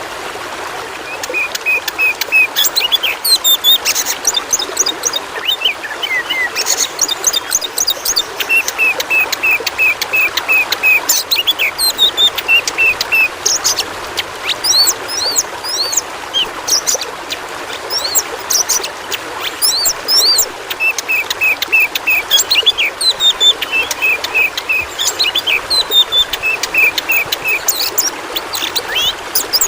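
Oriental magpie-robin singing a varied run of whistled phrases, with rows of quick repeated notes and higher rising whistles, starting about a second in. Under it a steady rush of running water.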